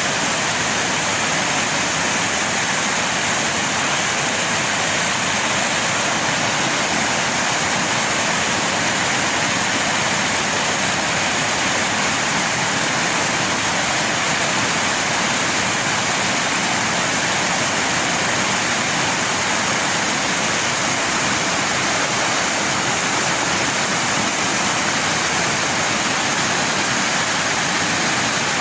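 Floodwater rushing steadily, a continuous even roar of fast-flowing runoff.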